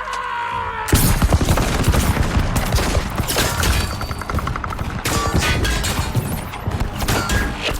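Sustained rapid gunfire: many overlapping shots starting about a second in and continuing without a break.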